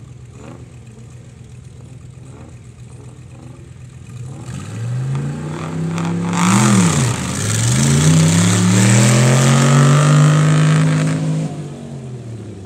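Drag-racing tractor engines idling, then launching at full throttle about four seconds in. The pitch climbs, drops sharply at a gear change midway, climbs and holds again, and the engines fade away near the end.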